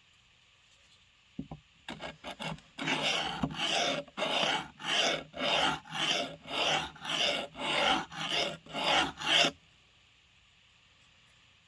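Steel blade being rubbed across a sharpening stone: a few short scrapes, then a steady run of back-and-forth strokes about two a second that stop near the end.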